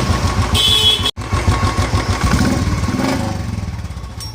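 Royal Enfield single-cylinder engine idling with an even thump, running clean with no starter rattle now that the worn starter-clutch roller bearing has been replaced. It cuts out for an instant about a second in and fades away near the end.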